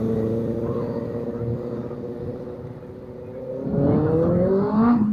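Car engine running, its pitch sagging slightly, then revved up about three and a half seconds in, the pitch climbing quickly for over a second.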